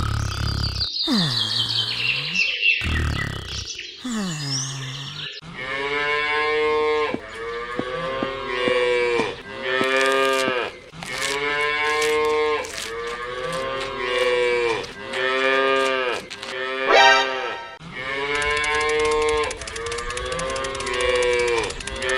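Cattle mooing over and over, one long moo after another about once a second. In the first five seconds, before the mooing starts, there are sounds that fall in pitch.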